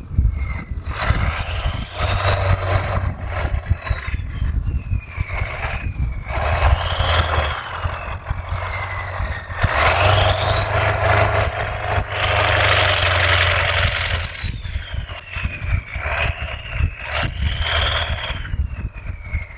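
Ford 7.3 Powerstroke diesel truck revving in repeated surges as it tries to push through deep snow. A high whine rises and falls with each rev, the longest push about halfway through. The truck is bogging down in dense snow that leaves it high-centred.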